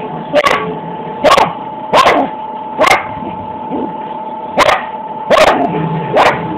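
A dog barking in short, sharp single barks, seven of them about a second apart; the dog is hyper and excited.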